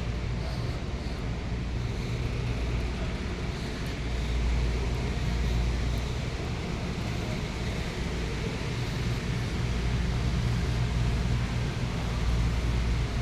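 Steady low hum under a constant hiss, with no speech, swelling slightly about four seconds in.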